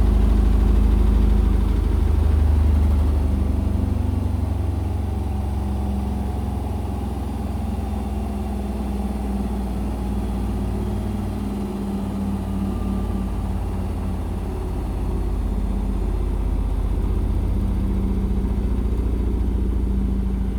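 Indesit BWE101683 washing machine spinning, with a steady low hum and a dense, rapid rattle as the cabinet shakes against the floor. The spin is unbalanced because the flooring under the machine is uneven.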